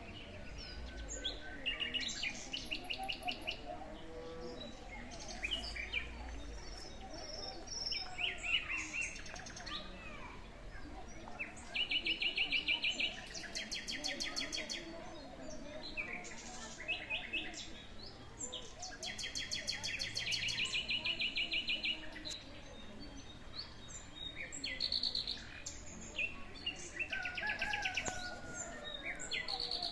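Several songbirds singing together, with overlapping chirps and whistles and several bursts of fast, rapidly repeated trilled notes lasting a second or two each.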